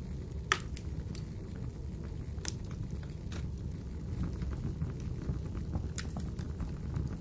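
Wood fire in a fireplace crackling, with a handful of sharp pops, the loudest about half a second in, over a steady low rumble of rainfall.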